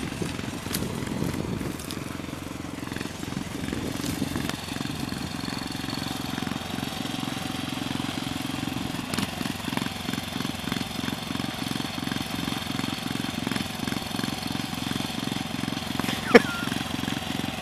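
Small tractor engine running steadily with a fast, even pulse while plowing. A brief high squeak comes near the end.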